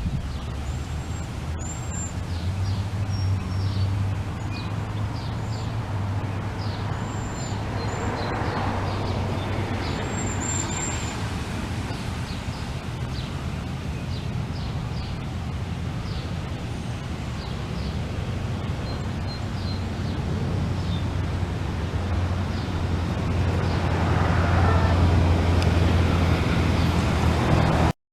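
Steady hum of road traffic that grows louder near the end, with many short, high bird chirps over it.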